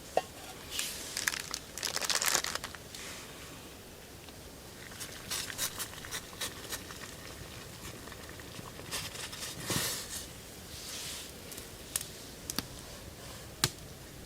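Irregular crinkling and rustling from something being handled, in bursts, with scattered sharp clicks and taps.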